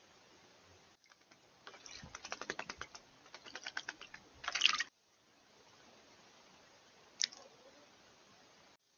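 A rapid run of sharp clicks, about ten a second, lasting a couple of seconds, then a short loud burst of noise and, a little later, a single click.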